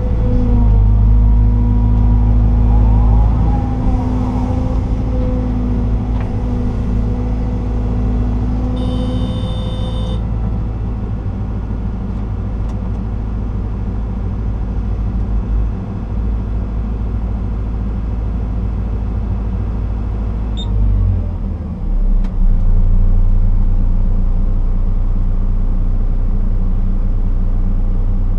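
Liebherr R926 excavator's diesel engine and hydraulics working, heard from inside the cab as a loud, steady low drone. A pitched whine sits over it for the first ten seconds, a brief high tone sounds about nine seconds in, and the engine note changes about twenty-one seconds in.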